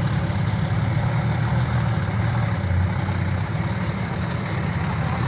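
Dump truck's diesel engine running steadily as the truck drives, a low, even rumble.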